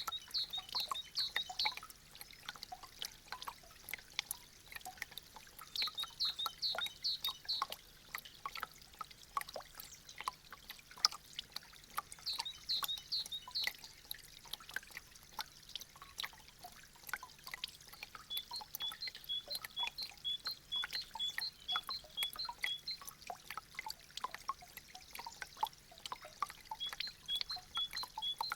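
Meltwater dripping from icicles: many irregular drops and trickles. High chirping phrases come three times, then a steady run of repeated paired high notes starts about two-thirds of the way in.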